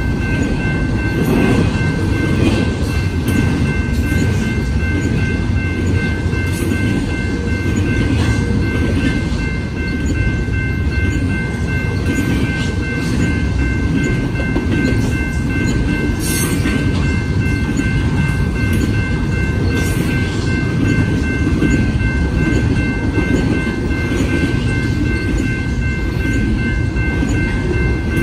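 Double-stack intermodal container train rolling past at speed: a steady rumble of steel wheels on rail with scattered clicks and clacks from the wheels passing rail joints. A steady high ringing tone sits over it.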